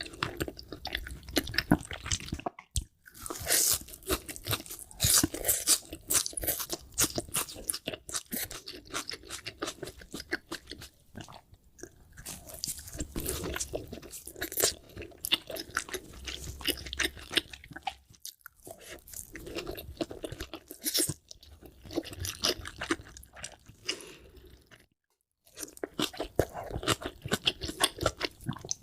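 Close-miked eating of salmon sushi and sushi rolls: continuous chewing with crunchy, crackling bites and wet mouth sounds, broken by three brief silences.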